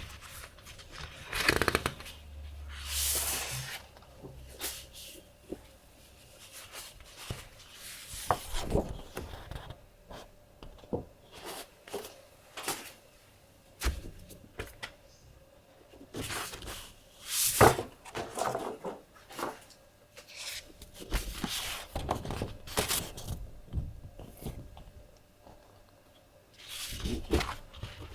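Stationery being handled by hand: papers and packaging rustling and sliding, with irregular taps and light thunks throughout.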